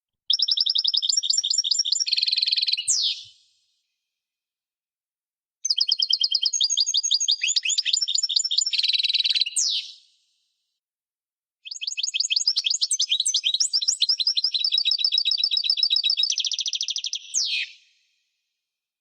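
European goldfinch singing three long phrases of rapid, jingling twitters and trills. Each phrase ends in a sharp sweeping note, with a few seconds of silence between them.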